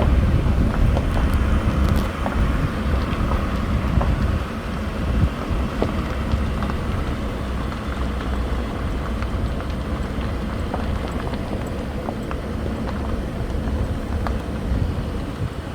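Car driving on a rough dirt and gravel road: a steady low rumble from the road and engine, with scattered small ticks and knocks of gravel under the tyres.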